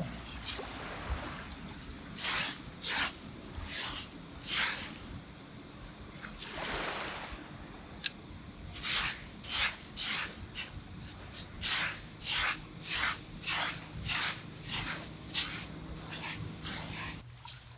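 Digging for asari clams in wet sand and shell grit: a string of short scraping strokes, one or two a second, with one longer stroke in the middle and a single sharp click about eight seconds in.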